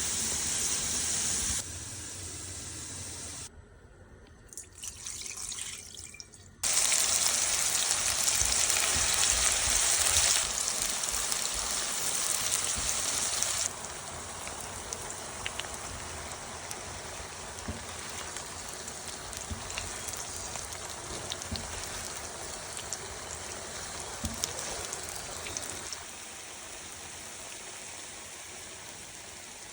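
Potatoes frying in oil in a pan: a steady sizzling hiss with small crackles, in several cut segments, loudest for a while before settling to a quieter sizzle.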